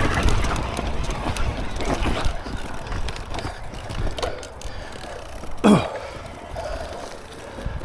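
Mountain bike being ridden over a wet, rooty trail: chain, frame and parts rattling with many small clicks and knocks, and a louder sharp knock about six seconds in.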